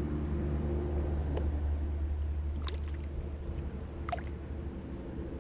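A boat's motor runs steadily with a low rumble and hum. A few faint ticks sound over it.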